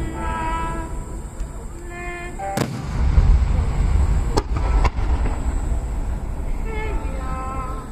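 Aerial fireworks shells bursting: a sharp crack about two and a half seconds in, then deep booming rumble with two more cracks a couple of seconds later. Music with held melodic notes plays over loudspeakers before and after the bursts.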